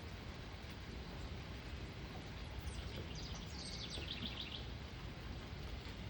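A songbird calls with a short run of rapid high chirps about three and a half seconds in, over steady low rumbling background noise.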